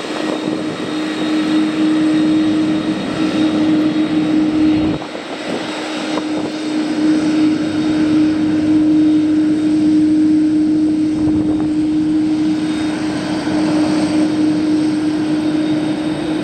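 Airbus A330's GE CF6-80E1A4 turbofan engines running with a steady droning hum over broad jet noise.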